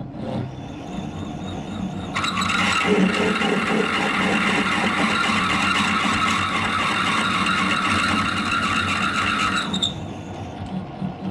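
A drill cutting deeper into a head-bolt hole in a cast-iron Chevrolet 396 engine block, over a machine spindle running. The cut gives a steady high squeal from about two seconds in until it stops near the end.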